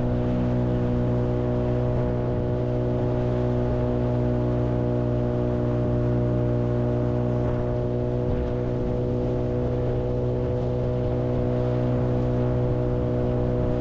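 Fishing boat's motor running at a steady speed under way, one unchanging drone.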